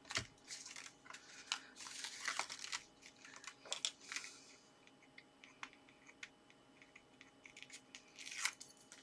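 Paper and the plastic backing of red liner tape being handled and peeled: crinkling and small tearing noises, busiest in the first four seconds, then a few light clicks and one more crinkle near the end.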